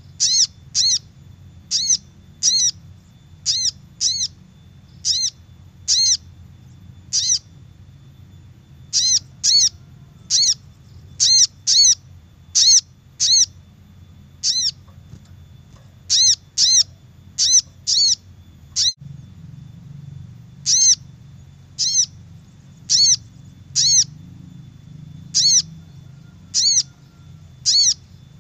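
Little spiderhunter (sogok ontong) calling: short, sharp, arched chip notes repeated at an uneven pace of one or two a second, with a couple of brief pauses. It is a lure call for attracting wild birds of the species.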